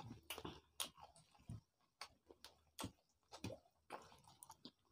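Faint, irregular mouth sounds of people eating rice and chicken curry by hand: soft chewing clicks and lip smacks, roughly two a second.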